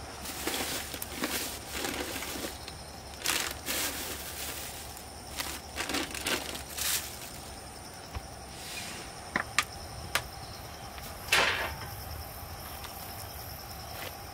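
Irregular rustling and scraping handling noises, with a few sharp clicks a little past the middle and a louder scrape soon after.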